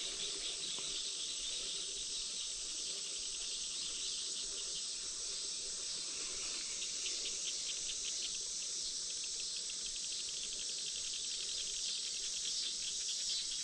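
Evening insect chorus: a steady, high-pitched chirring of many insects, with a rapid even pulsing that grows clearer partway through.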